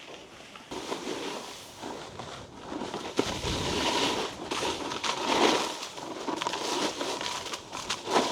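Snowboard sliding and scraping over icy, slushy snow, the noise swelling and fading unevenly as the rider carves and checks speed.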